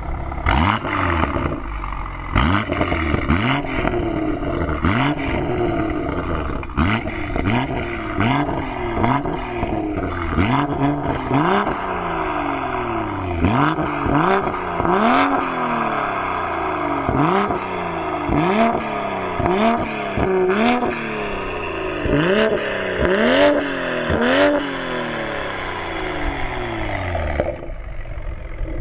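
BMW M340i's 3.0-litre turbocharged straight-six, fitted with a Fi Exhaust full system and 200-cell downpipe, free-revved in about twenty quick blips, each rising and falling back, with sharp cracks among them. The blips climb higher in the second half before the revving stops near the end.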